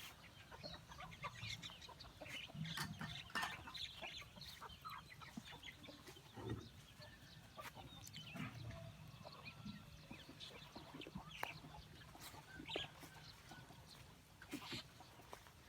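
Chickens clucking, faint, in many short scattered calls.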